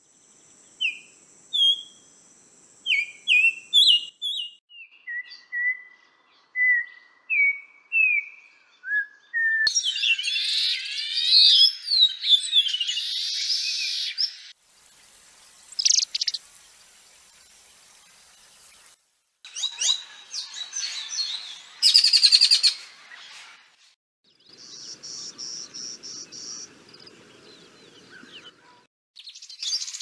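Edited bird recordings in sequence. First, a Yellow-backed Oriole's song of clear, separate whistled notes, followed by a denser passage of quick gliding notes. Then, about halfway, Shiny Cowbird calls and song in several short recordings with brief silent gaps between them.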